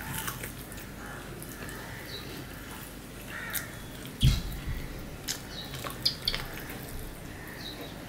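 Wet chewing and lip smacks of a mouthful of rice and mutton curry eaten by hand, with scattered short clicks and one low thump about four seconds in.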